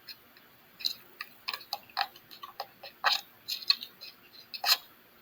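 A string of light, sharp clicks and taps at an uneven pace, about a dozen over a few seconds.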